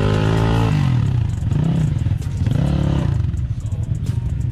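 Off-road motorcycle engine running under way, revving up and easing off, with two shorter rev rises and falls after the first.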